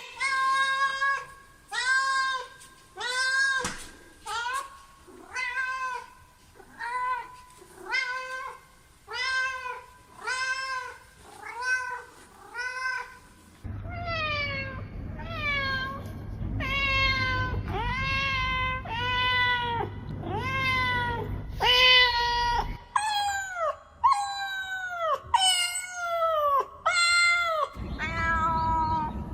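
Domestic cats meowing again and again, roughly one meow a second. The first cat's meows are evenly spaced. After a cut about halfway through, other cats' meows slide down in pitch at the end, over a low steady hum.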